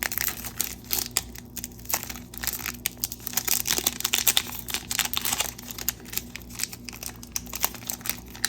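Panini Chronicles soccer card pack wrapper being torn open and crinkled by hand, with a steady run of irregular crackling.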